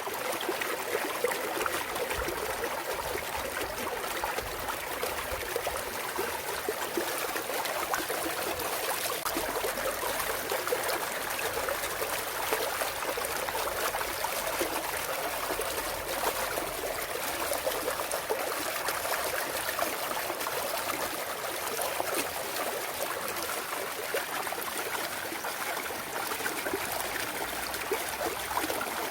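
Clear mountain stream trickling and burbling over rocks, a steady flow of water with fine splashes and no change through the stretch.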